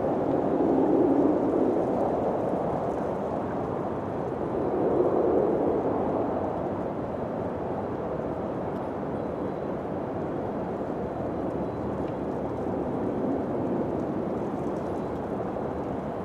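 Wind blowing in gusts, a low rushing that swells about a second in and again about five seconds in, then settles to a steadier blow.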